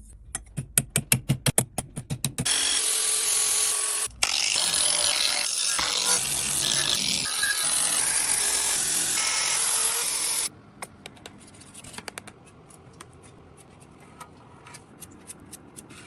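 Workshop tool sounds: a fast run of sharp clicks for about two seconds, then a power tool running loud and steady for about eight seconds, cutting out briefly about four seconds in, then stopping, followed by faint scattered clicks of handling.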